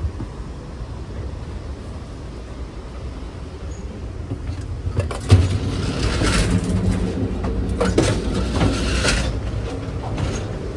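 Passenger train running, a steady low rumble from the car. About halfway through a sharp knock comes, and for some four seconds the rattling and track noise grow louder, as when crossing the gangway between two cars, before it settles back.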